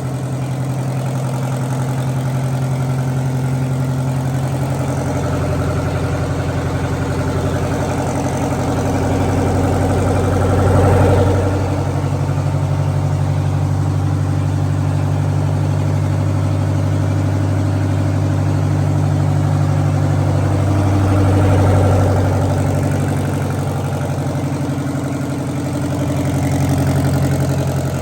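Detroit Diesel 8V71, a naturally aspirated two-stroke V8 diesel, running on a test run. Its speed is raised about a third of the way in, held higher for several seconds, then eased back, with another short rise near the end.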